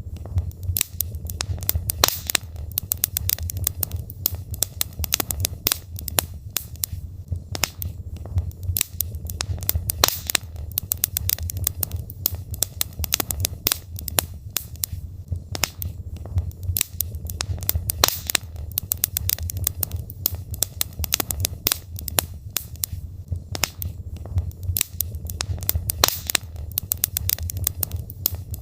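Logs burning in a fireplace, crackling with many sharp, irregular pops over a steady low rumble.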